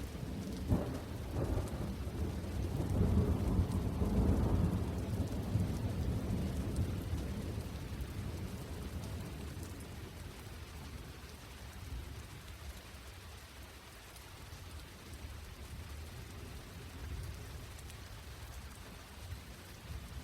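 Steady rain falling, with a long roll of thunder that builds over the first few seconds and slowly rumbles away.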